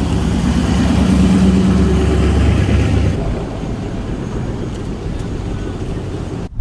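Truck engine running close by, loud and steady with a low hum, dropping to a quieter level about three seconds in.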